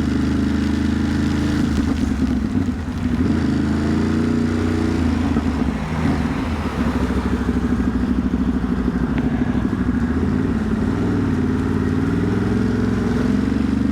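Ducati Monster's V-twin engine running under way, its pitch rising and falling with the throttle over steady road and wind noise. The engine note dips briefly about three seconds in and again about six seconds in.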